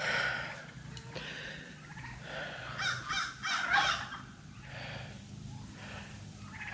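Domestic Sweetgrass turkeys gobbling: a call right at the start, then a louder run of rapid, warbling gobbles about three seconds in, and fainter calls after.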